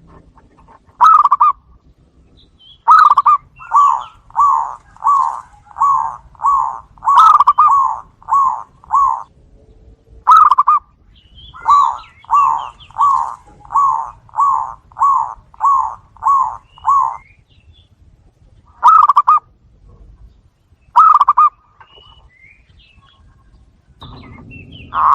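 Zebra doves (perkutut) calling: two long runs of quick, evenly spaced cooing notes, about three a second, with single notes between, as the birds answer one another.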